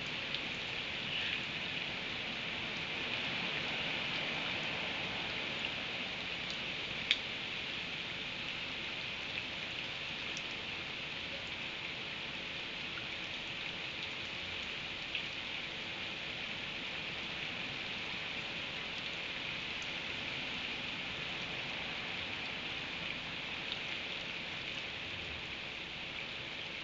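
Steady rain, a continuous hiss with scattered drop ticks and one sharper tick about seven seconds in.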